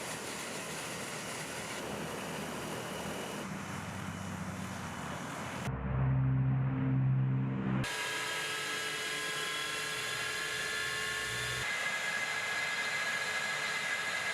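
Military aircraft engine noise in a string of short abruptly cut segments: jet engine noise with steady high whining tones, and in the middle a louder, deeper humming drone for about two seconds.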